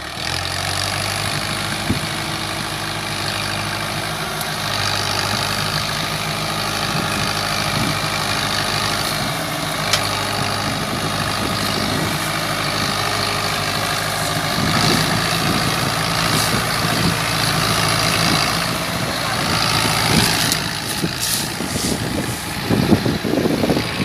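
New Holland tractor's diesel engine running steadily at a low, even speed, a little stronger after about 14 seconds. A few sharp knocks come near the end.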